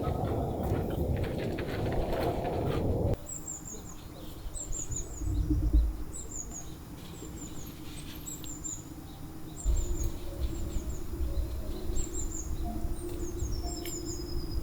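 Small birds chirping: repeated short, high, falling chirps. A rushing noise cuts off suddenly about three seconds in, and a low rumble comes in about five seconds in and again from about ten seconds.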